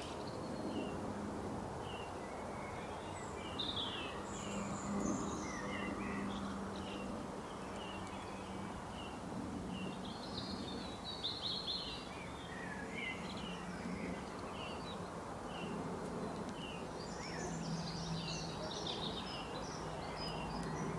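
Several small songbirds chirping and twittering in quick clusters of short high notes, over a steady outdoor background hiss with a faint low hum at times.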